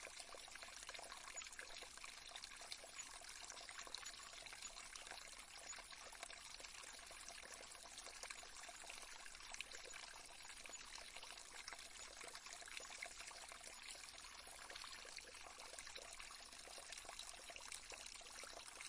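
Faint, steady trickling of a small stream, water running over stones.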